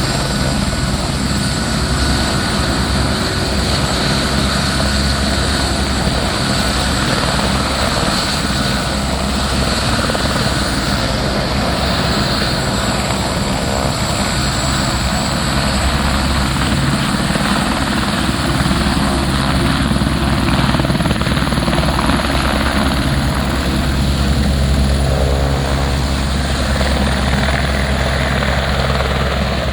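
Helicopter running close by at take-off: a steady low chop from the rotor blades under a high turbine whine, which rises slightly in pitch about halfway through.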